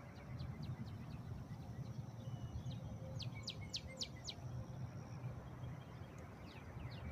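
Birds chirping faintly in the background: scattered short, quick chirps, with a run of about five sharper chirps around three seconds in, over a steady low rumble of ambient noise.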